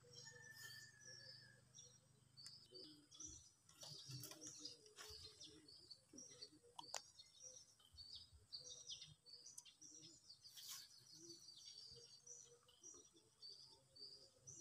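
Faint chirping of birds: many short, high chirps one after another, with a few soft clicks and rustles.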